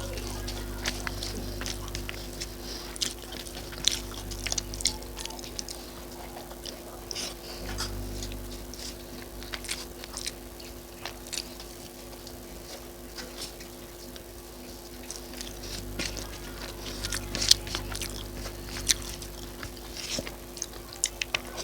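Crispy fried onion fritters (piyaji) being bitten and chewed close to the microphone, with many sharp, irregular crunches, over a steady low hum.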